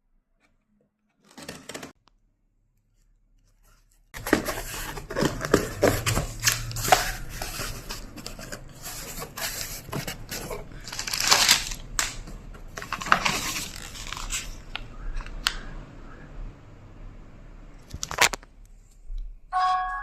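Packaging of an online-delivered parcel being cut and torn open, with scratchy tearing and crinkling of plastic and cardboard. A brief rustle comes about a second in, then after a pause a long stretch of tearing and cutting that stops shortly before the end.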